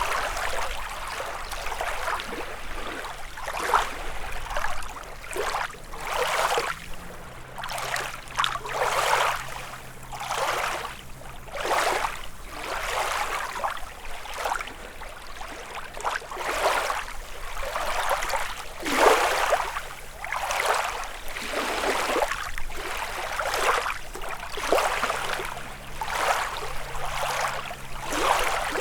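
Small lake waves lapping and splashing against the shore, one splash every second or two.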